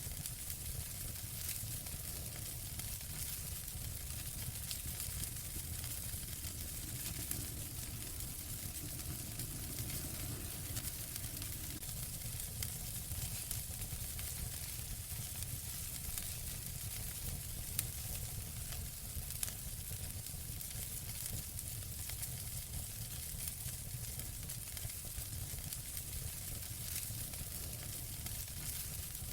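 Fire in a fireplace crackling steadily: a constant hiss with frequent small pops and snaps.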